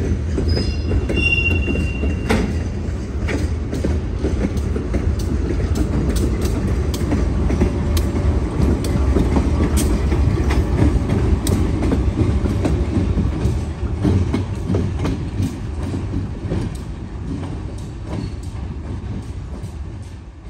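Providence & Worcester freight train passing close: a steady low rumble of diesel locomotives and rolling hopper cars, with clicking of wheels over rail joints and a brief wheel squeal in the first couple of seconds. The sound fades near the end as the train moves away.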